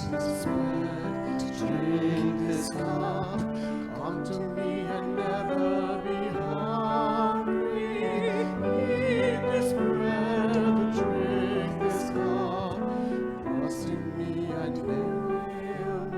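A solo singer in a trained, operatic style, with strong vibrato on held notes, accompanied by piano.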